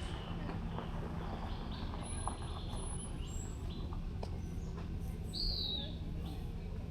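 A bird chirps once, a short arched call about five and a half seconds in, with a few faint high peeps earlier. Under it runs a steady low outdoor rumble.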